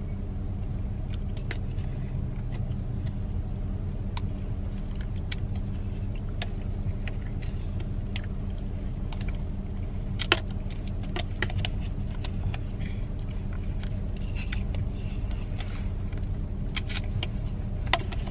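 Steady low rumble of a car's engine and road noise heard from inside the cabin, with a few scattered sharp clicks and taps, the clearest about ten seconds in and a couple near the end.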